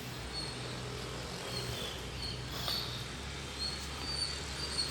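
Outdoor ambience: short, high bird chirps now and then over a low, steady hum.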